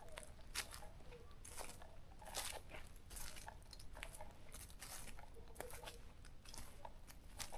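Footsteps crunching on a forest trail at a steady walking pace, a little over one step a second.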